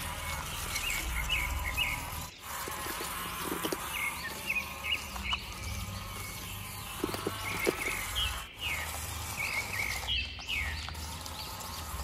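Small birds chirping in quick runs of three or four short notes, repeating every second or two over a steady low rumble, with a few soft knocks about seven seconds in.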